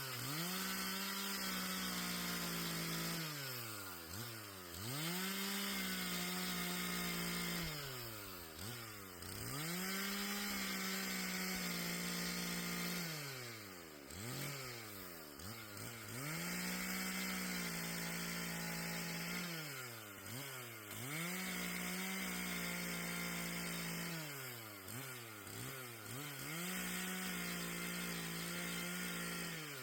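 Gas chainsaw cutting fallen trees into firewood. About six times the engine climbs to full throttle, holds a steady pitch for two to three seconds, then drops back briefly before revving up again.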